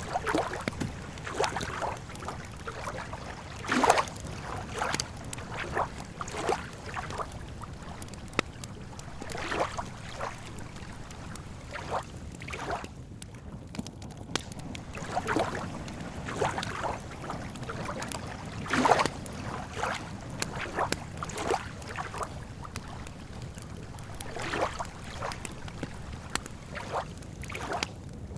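Lake water lapping and splashing in irregular bursts, a few every several seconds, over a steady low rumble, with a campfire crackling alongside.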